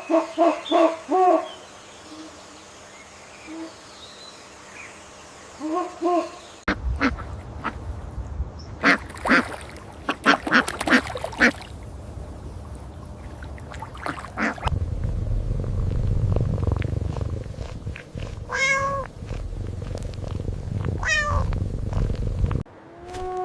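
A string of different animal calls with abrupt changes between them: short harsh repeated calls at the start and again about six seconds in, then a rapid run of sharp clicking calls, then two drawn-out pitched calls over a low rumble near the end.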